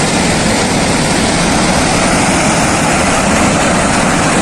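Floodwater from a burst mining reservoir rushing down a mountainside, a loud, steady, low rumble of water and debris.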